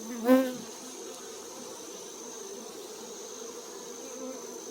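Honeybee swarm buzzing steadily around the box it is settling into, with one louder buzz about a third of a second in that rises and falls in pitch.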